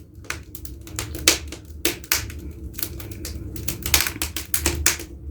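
Firewood burning in a fireplace, crackling with irregular sharp pops.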